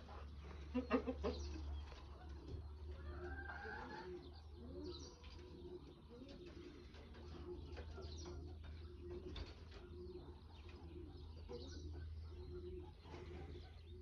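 Aviary birds calling: a low cooing note repeated steadily, a little more than once a second, with a louder burst about a second in.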